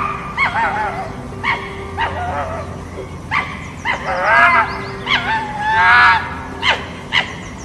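An animal calling over and over: short, high, wavering whining calls about once a second, with a few sharp short sounds in between, over a faint steady background tone.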